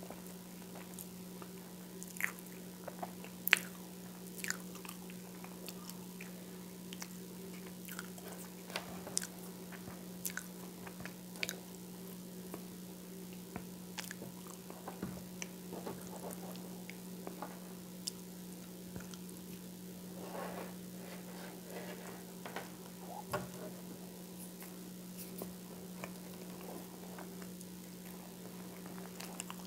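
Close-up chewing and biting of whole wheat toast spread with peanut butter and coconut oil: scattered crisp crunches and wet mouth clicks, the sharpest crunch about three and a half seconds in, over a steady low hum.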